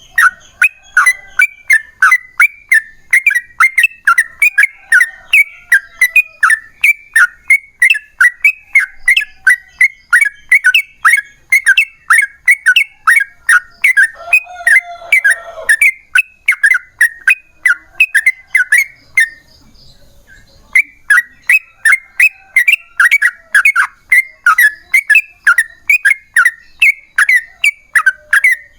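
Yellow-vented bulbul (trucukan) singing a long, fast string of short chirping notes, about two to three a second. It pauses for about a second around two-thirds of the way through, then carries on.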